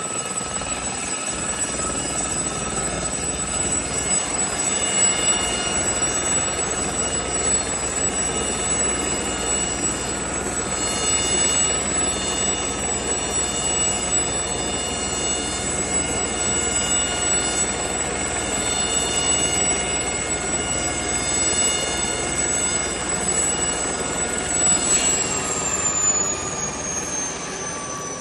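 Military helicopter running close by: a steady wash of rotor and engine noise under a high turbine whine made of several tones. Near the end the whine starts to fall in pitch.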